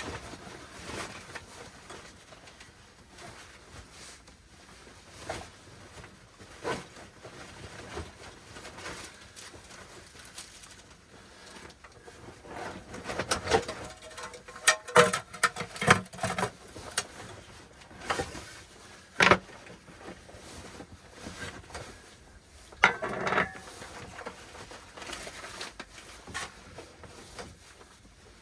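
Scattered knocks, clicks and rustling of things being handled at close range, busiest in the middle stretch, with a few sharp knocks standing out.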